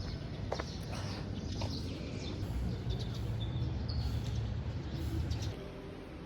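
Birds chirping in short calls over a steady low outdoor rumble, which drops away near the end.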